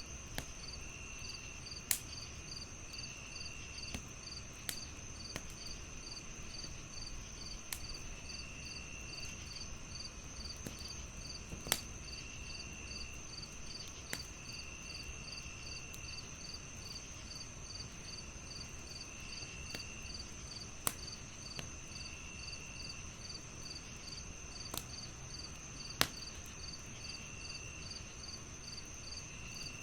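Crickets chirping in a fast, even pulse over a continuous high insect trill, with shorter, lower trills every few seconds. A log fire crackles underneath with scattered sharp pops, four of them louder than the rest.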